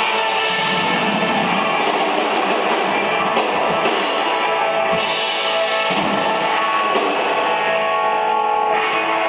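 A rock band playing live: electric guitar and a drum kit, with several cymbal crashes.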